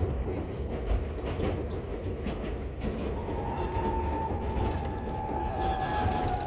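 Enoden electric train running on the rails, heard from on board: a steady low rumble with irregular clicks and knocks. From about halfway through, a high thin tone comes in and slowly falls in pitch.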